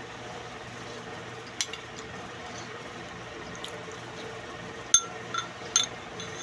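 Spoon or other cutlery clinking against a plate or bowl while eating: one clink about a second and a half in, then a quick cluster of three ringing clinks near the end, over a steady low background hum.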